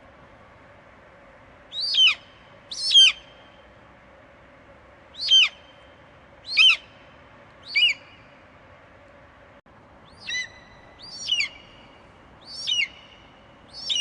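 Eagle screeching: a series of about nine short, sharply falling screech calls, spaced one to one and a half seconds apart, over a steady background hiss.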